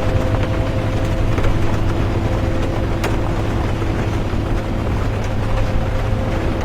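Inside a moving bus: a steady low engine and road rumble with a faint hum that fades in and out. Light scattered ticks of rain against the bus, one sharper about three seconds in.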